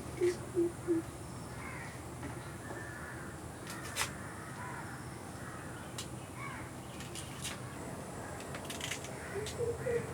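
Birds calling: a quick run of short, low repeated notes in the first second and again near the end, with scattered higher chirps and a couple of sharp ticks in between.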